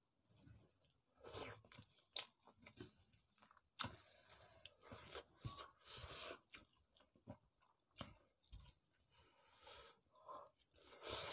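Quiet, irregular chewing and biting of two people eating rice and fish curry with their hands, with small clicks scattered throughout.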